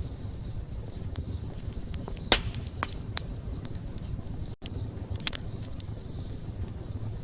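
Wood fire burning, with a steady low rumble under scattered crackles and pops; the loudest pop comes a little over two seconds in. The sound cuts out for an instant just past the middle.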